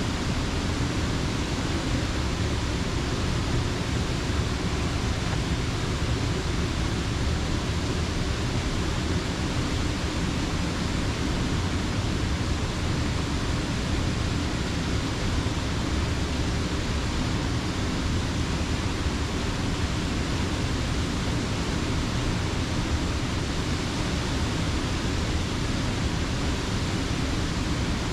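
Creek water rushing steadily over a mill dam: an even, unbroken rush with no change from start to end.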